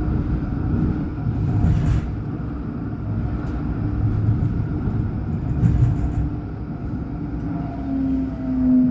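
Alstom NGT8D low-floor tram running, heard on board: a steady rumble of wheels on rail under the electric traction drive's hum. The drive's tone shifts in pitch and grows louder near the end. Two short hissing bursts come about two and six seconds in.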